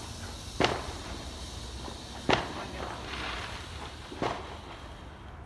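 Three sharp firework bangs about two seconds apart, each with a short echoing tail, the middle one loudest, over a steady background hiss.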